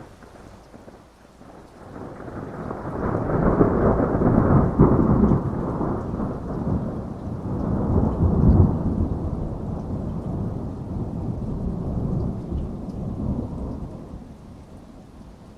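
A long roll of thunder over steady rain: the rumble builds about two seconds in, swells twice, and dies away near the end.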